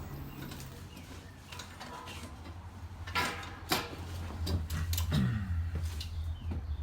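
A few sharp clicks and knocks over a steady low hum, with a small bird chirping several times near the end.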